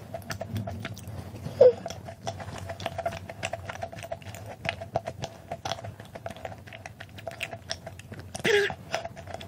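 Close-miked chewing of a soft macaron, full of small wet mouth clicks and smacks. A brief voiced murmur comes about a second and a half in and again near the end.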